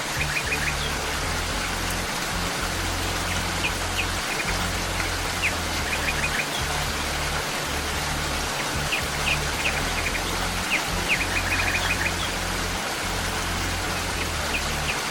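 Steady rain with soft, low, sustained music underneath, and clusters of short, high bird chirps every few seconds.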